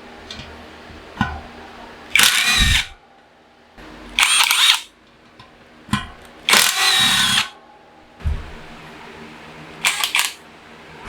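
Power drill whirring in four short bursts, each under a second, with sharp clicks and knocks between them, as parts are unbolted from a steel bicycle frame.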